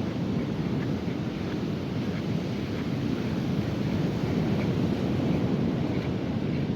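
Steady rush of ocean surf on a beach, mixed with wind buffeting the microphone.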